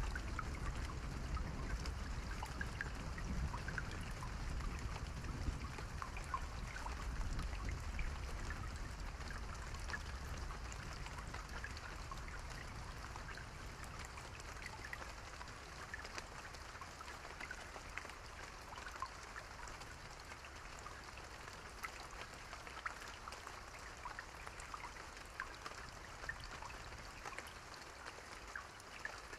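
Steady rain, with individual drops ticking through an even hiss. A low rumble of distant thunder dies away over the first ten seconds or so, leaving the rain alone and a little quieter.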